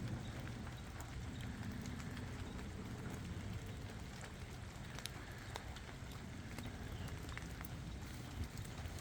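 Rain falling, with scattered individual drops ticking sharply over a steady low rumble.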